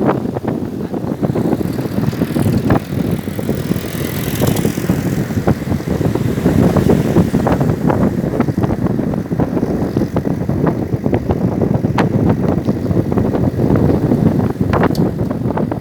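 Steady rumble of a moving vehicle, with wind buffeting the microphone and frequent small rattles and knocks.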